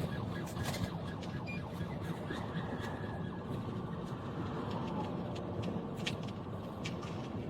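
Steady vehicle road and engine noise with a police siren wail, which sweeps down in pitch a little past the middle. Scattered short clicks run through it.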